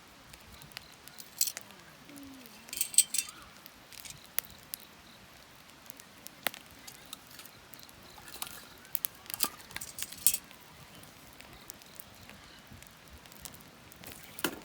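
Wood fire crackling, with irregular sharp pops and snaps, a few of them much louder than the rest.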